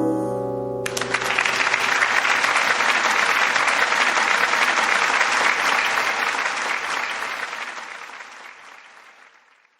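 The last guitar notes ring out, then an audience breaks into applause about a second in, clapping steadily before fading away near the end.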